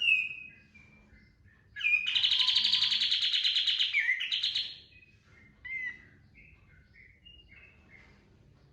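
Kapas tembak songbird singing: a sharp call, scattered soft chirps, then one loud, fast rattling trill of about three seconds that dips in pitch at its end, its 'tembakan' burst, followed by more soft chirps.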